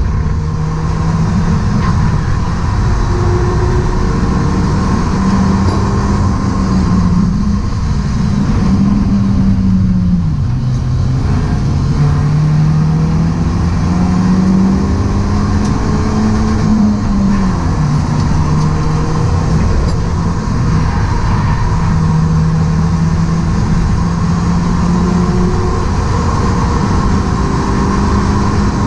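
BMW E36 Compact's engine pulling hard on track, heard from inside the cabin over a steady rushing noise. Its pitch climbs as the car accelerates and drops back several times as it shifts gear and lifts for corners, then rises again near the end.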